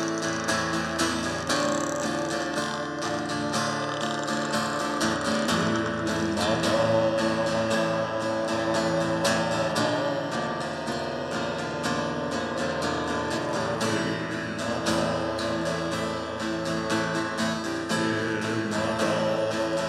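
Acoustic guitar strumming in an instrumental passage of a song, with sustained pitched notes over the chords.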